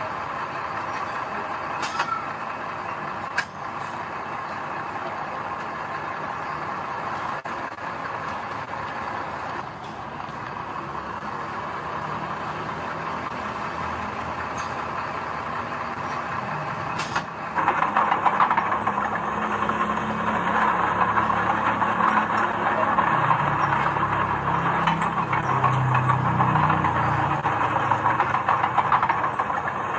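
Diesel engines of heavy earthmoving machinery running steadily, with a few sharp clicks. About 17 seconds in, a louder, harsher mechanical noise sets in and keeps going.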